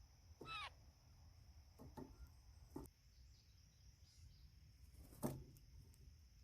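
Small birds at a feeder: one short falling call about half a second in, then a few scattered clicks and knocks, the loudest about five seconds in. A faint steady high tone lies under it all.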